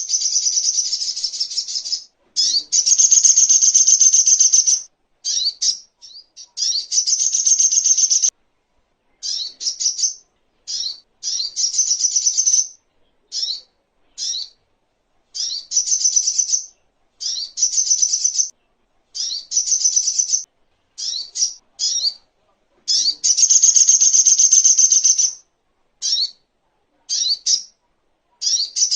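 Little spiderhunter (sogok ontong) singing: high-pitched, rapid chattering phrases. Some run two to three seconds and many are short bursts, separated by brief silences.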